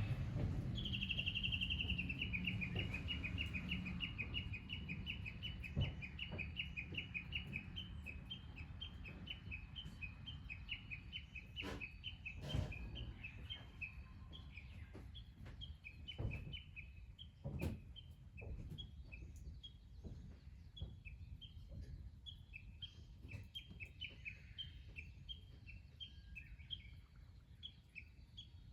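An animal calling in a long, fast run of high repeated chirps that starts about a second in and keeps going. Over it are a low rumble and a few sharp cracks around the middle.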